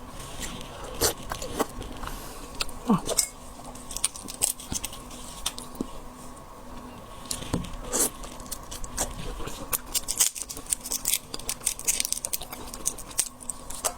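Close-miked eating of shellfish: irregular clicks and crackles of shell being cracked and picked apart, with biting and chewing.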